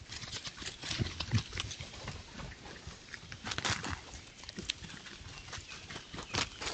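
Wild boar moving about and foraging: repeated rustling and crackling, with a couple of low thuds about a second in.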